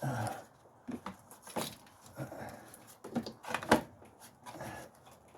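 Clicks and knocks of a plastic engine-bay box being worked off its rubber mounts, with the sharpest knocks about one and a half, three and nearly four seconds in.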